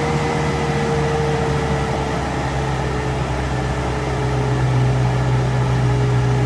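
Daihatsu Rocky's 2.0-litre petrol engine running steadily under load. Its note drifts slightly lower and grows a little louder about four seconds in.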